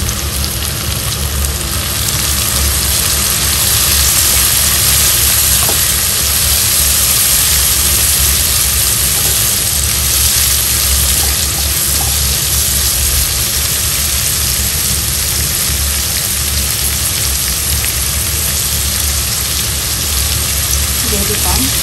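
Julienned carrots and leeks sizzling in hot oil in a wok as they are stir-fried: a steady hiss that grows a little louder about two seconds in.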